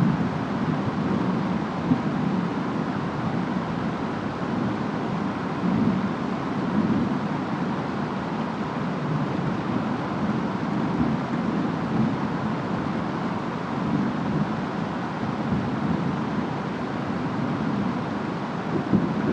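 Steady rain and wind of a distant storm, a continuous hiss with a low rumble that swells and eases every few seconds.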